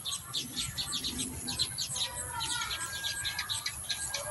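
Small birds chirping in quick, repeated short notes, several a second, over a low background rumble.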